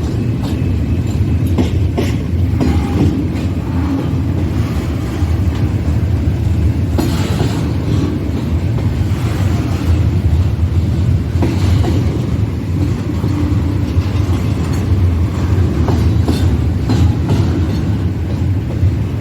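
Train cars rolling past close by: a steady low rumble with wheel clicks every second or so.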